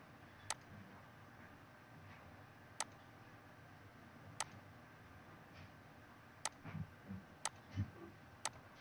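Computer mouse buttons clicking: about six sharp single clicks at uneven intervals, with a few soft low thuds near the end.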